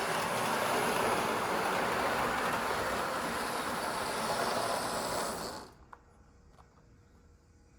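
H0-scale Lima model train, an E646 locomotive hauling a push-pull set, running on sectional track with a steady whirring rattle of motor and wheels. The sound dies away quickly about five and a half seconds in.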